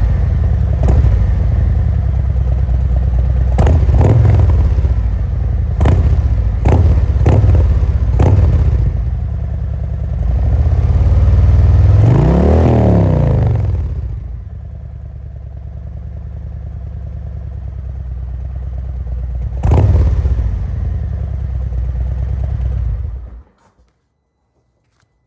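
Harley-Davidson Road Glide Special's Milwaukee-Eight V-twin, warm, running through a Khrome Werks 2-into-2 exhaust with louvered baffles: a series of sharp throttle blips, then one longer rev that climbs and falls about halfway through. It settles to idle, takes one more quick blip, and is switched off near the end.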